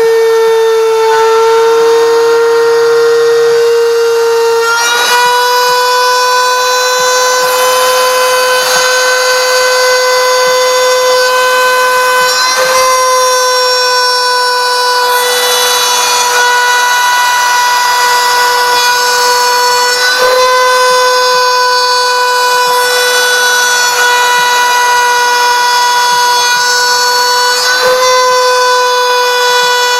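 CNC router spindle running under cutting load with a steady high whine. The pitch dips briefly about every seven or eight seconds, and a faint low pulsing runs underneath.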